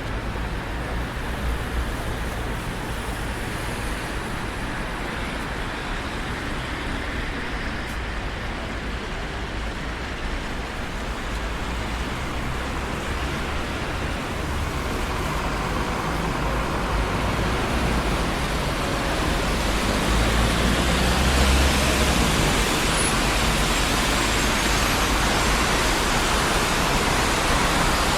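Steady traffic noise of a busy city street: a continuous wash of car engines and tyres on the road, swelling louder in the second half as heavier or closer traffic goes by.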